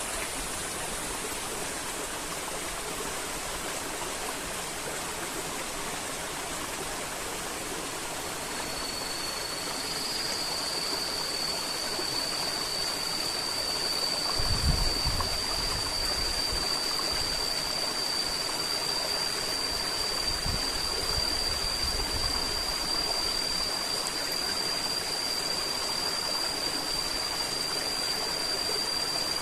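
River water flowing, a steady rush. About a third of the way in a steady high-pitched tone sets in and holds to the end, and low thumps come about halfway through and again a few seconds later.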